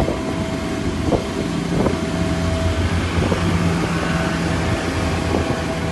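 Steady low mechanical hum with a thin steady tone above it, under wind noise on the microphone, with a few faint knocks.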